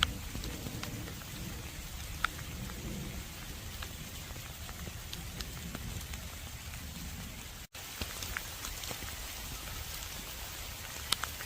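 Steady rain falling, with individual drops ticking sharply now and then over the even patter. The sound cuts out for an instant about two-thirds of the way through.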